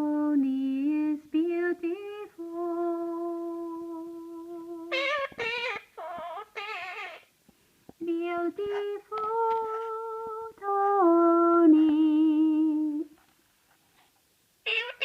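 A voice humming a slow tune in long held notes that step up and down in pitch, with a few short, high, wavering sounds in between. The humming stops about two seconds before the end.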